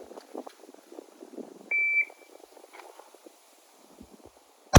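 Shot timer's start beep, one short steady high tone about two seconds in, then near the end a single sharp shot from a 9mm Glock 19 pistol fired one-handed: the first of a two-shot string.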